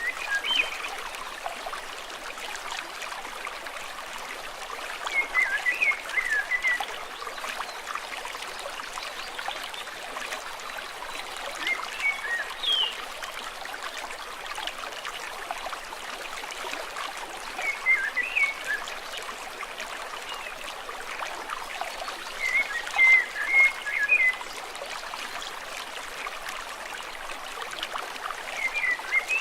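Stream trickling and babbling steadily, with a bird singing short chirpy phrases about every five or six seconds.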